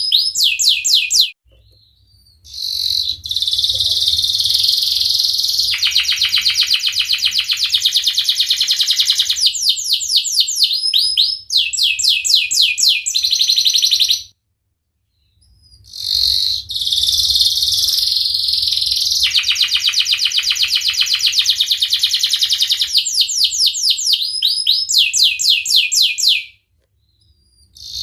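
Domestic canary singing long, loud song phrases of rapid rolling trills mixed with quick sweeping chirps. The song stops twice for about two seconds, about a second in and again about halfway, then resumes.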